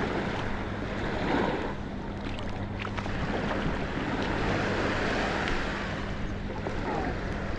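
Beach ambience: waves washing on the shore with wind buffeting the microphone and a low steady hum underneath.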